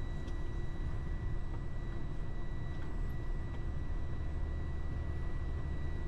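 Tractor-trailer droning steadily while driving, engine and road rumble heard inside the cab, with a faint steady high whine over it.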